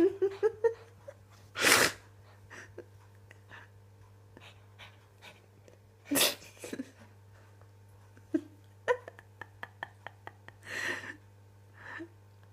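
Puppy at play giving three short, sharp puffs of breath several seconds apart, with a run of light clicks and taps in between.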